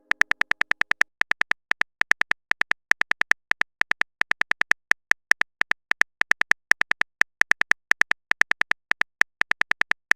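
Typing sound effect: a rapid, uneven run of short, identical high clicks, about six a second in bursts with brief pauses.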